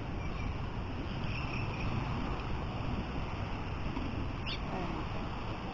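Steady wind and water noise, with a few faint short high squeaks or chirps: one cluster about a second and a half in, and a brief chirp near the end.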